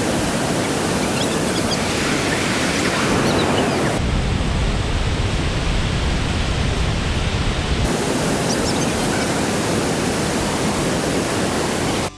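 Steady, loud rushing roar of falling water, like a large waterfall heard up close. Its tone shifts abruptly a few times, about 2, 4 and 8 seconds in.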